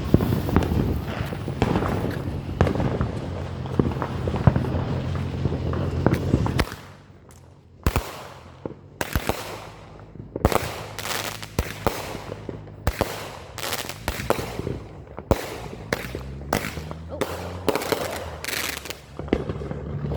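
Consumer fireworks going off: a string of about fifteen sharp bangs at irregular spacing, each trailing off, starting about eight seconds in. Before that, for the first six seconds or so, a low steady hum with crackling runs, then cuts off suddenly.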